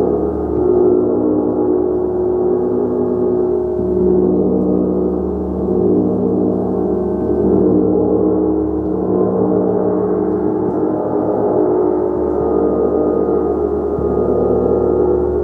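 A gong played continuously, giving a loud, sustained wash of many overlapping ringing tones that swells and ebbs every few seconds.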